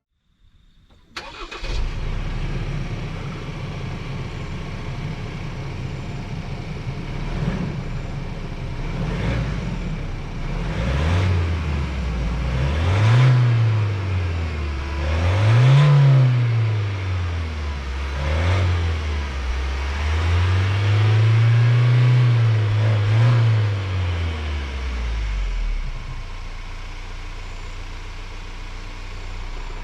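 2022 Ford Ranger Raptor X's 2.0-litre twin-turbo diesel four-cylinder running steadily for several seconds, then accelerating hard. Its pitch rises and drops back several times as the 10-speed automatic shifts up, the last climb the longest. The engine then eases off to a steady low note.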